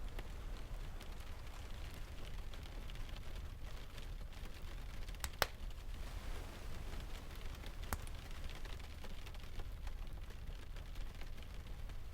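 Steady ambience of rain and distant ocean waves with a low rumble, and a few sharp pops from a crackling wood fire, the loudest about five seconds in and another near eight seconds.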